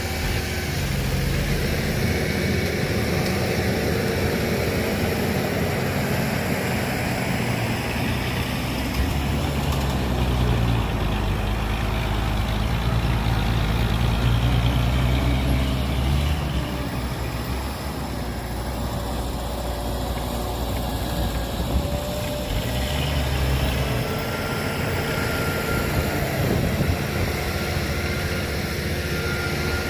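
Heavy earthmoving vehicle's diesel engine running continuously, its low drone swelling under load for several seconds in the middle and then easing off.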